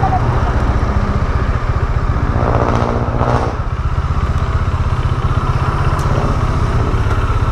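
Bajaj Dominar 400's single-cylinder engine running under way through an aftermarket SC Project exhaust: a steady, low, pulsing exhaust note.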